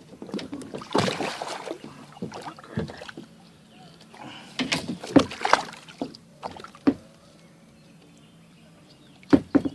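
Water splashing and knocking around a kayak, in irregular bursts, with a few sharp knocks near the end.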